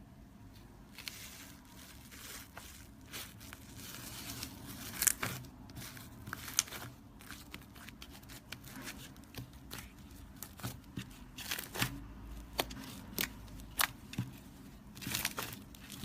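Slime being squeezed and stretched by hand, making irregular crackling and sharp popping clicks, with a few louder pops around five and six and a half seconds in.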